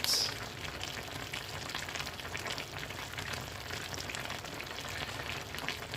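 Faint steady crackling sizzle of a meat, potato and olive tajine cooking in its pot.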